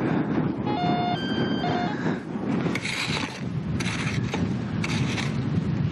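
A metal detector sounds briefly with thin, steady high tones about a second in, signalling buried metal. It is followed by digging in desert soil: four scraping strokes about a second apart over a low steady rumble.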